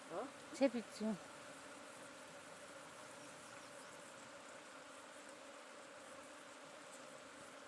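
Swarm of honeybees buzzing, a steady, even hum.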